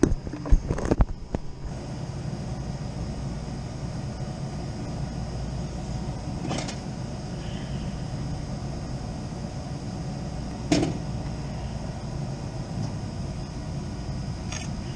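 Steady low machinery hum from rooftop HVAC equipment. Several clicks near the start, then a few sharp knocks and clicks, one louder about eleven seconds in, from tools and parts being handled on a packaged rooftop unit during a wiring repair.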